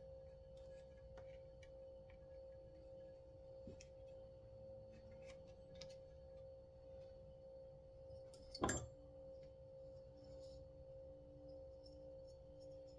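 Small parts of a chainsaw recoil starter being handled and fitted: faint scattered clicks and taps, then one sharp click about two-thirds of the way through, all over a steady background hum.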